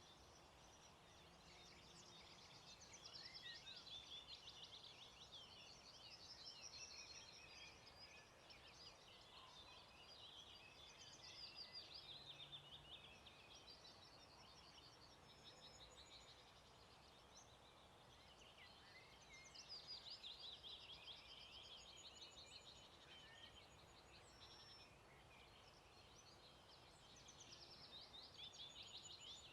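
Faint dawn chorus of several songbirds singing at once: overlapping rapid trills and chirps that swell every few seconds, over a quiet steady background hiss.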